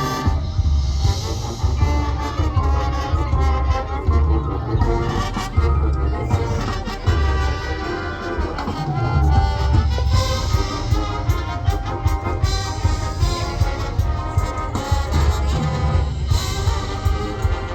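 High school marching band playing its field show: brass section (trumpets, trombones) carrying the melody over a heavy low-end pulse from the drums.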